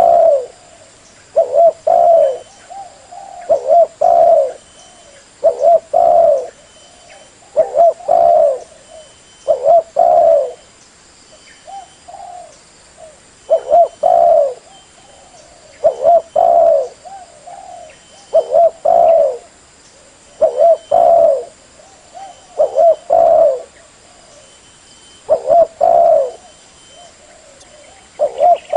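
Spotted dove cooing: short phrases of low coos repeated about every two seconds, with a few longer pauses between them.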